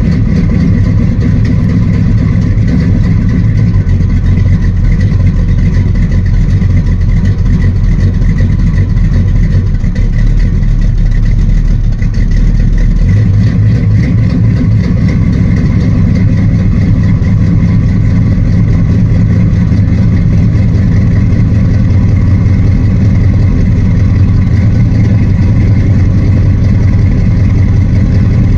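1972 Dodge Charger's 383 cubic-inch big-block V8 idling steadily after a cold start, still warming up. The idle note changes once, about halfway through.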